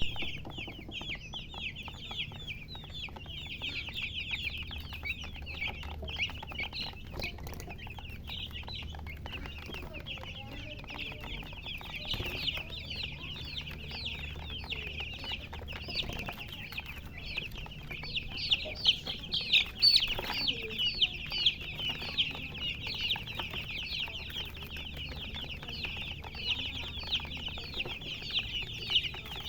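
Baby chicks chirping nonstop: a dense chorus of short, high, falling peeps from many chicks at once, growing louder and busier around the middle. A faint low hum runs underneath.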